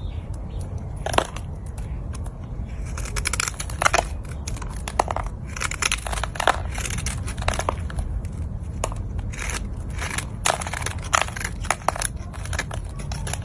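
Dry Ivory soap being crushed, crumbling with many irregular crisp crackles and crunches.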